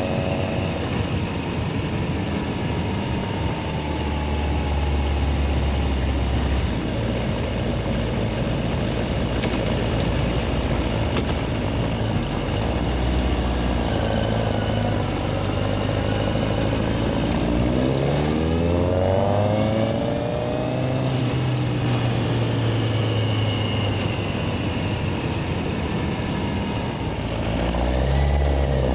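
Yamaha XJR1300's inline-four engine running as the motorcycle rides through city streets, with the engine note climbing twice as it accelerates, once around two-thirds of the way through and again near the end.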